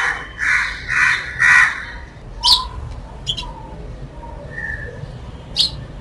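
Birds calling: four loud calls in quick succession about half a second apart, then a few short, sharp chirps from the sparrows visiting the balcony feeder.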